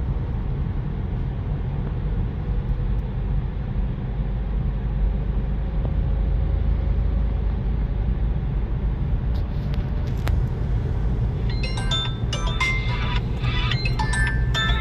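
Steady low rumble of a car driving slowly, heard inside the cabin. About twelve seconds in, a run of short high tones at changing pitches starts over it.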